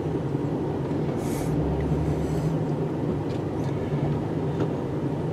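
Snow-plow truck engine running steadily in reverse while back-dragging snow with the plow blade down, with a short hiss just over a second in and a low rumble a moment later.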